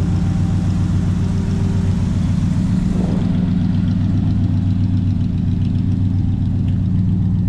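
1974 Chevrolet Corvette Stingray's 350 V8 idling steadily through its side-exit exhaust pipes.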